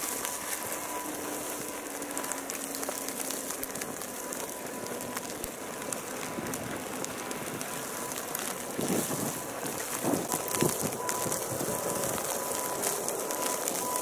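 Blizzard: wind-driven snow hitting close by with a fine, steady crackle and hiss, and a few louder rustles about nine to eleven seconds in.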